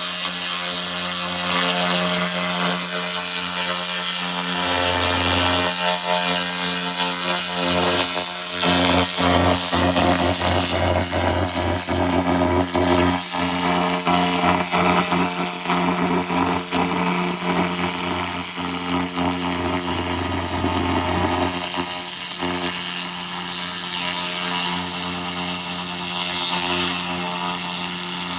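A 2000 W handheld laser rust remover crackling and sizzling as it burns rust off metal, over a steady machine hum. The crackle is thickest through the middle and thins out near the end.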